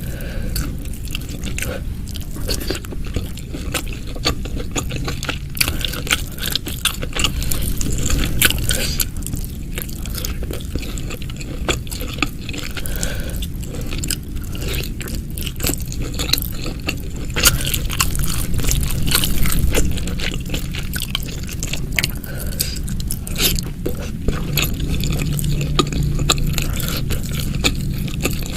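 Close-miked eating sounds: continuous chewing and biting of food, full of small wet clicks and crunches.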